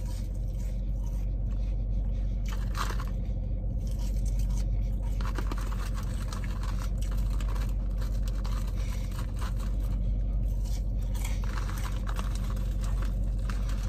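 A person chewing French fries, with soft crunching and mouth sounds now and then over a steady low hum.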